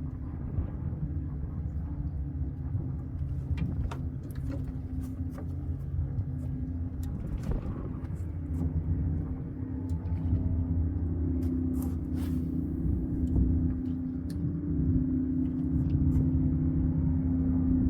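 An engine running steadily with a low hum, its pitch shifting and stepping up a little after the middle, with a few faint clicks over it.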